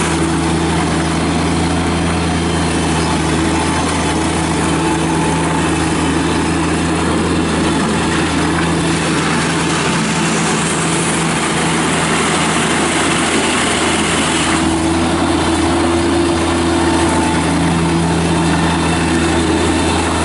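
The remanufactured Kubota diesel engine of a 2016 Bobcat MT85 mini rubber-track loader running at a steady speed.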